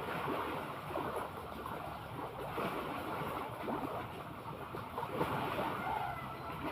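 Sea water washing and lapping in irregular surges, with some wind on the microphone.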